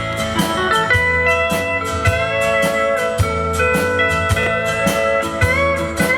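Live country band playing an instrumental break: a lead guitar holds long notes with some sliding pitch over bass and a steady drum beat.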